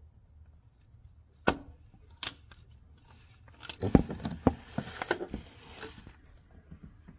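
Handling of metal tools and parts: two sharp clicks, then a quick run of knocks and clinks about four to five and a half seconds in.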